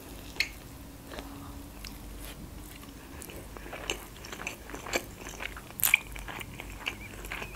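Close-miked chewing of a soft, moist stuffed cabbage roll, with short mouth clicks at irregular intervals, the loudest about six seconds in.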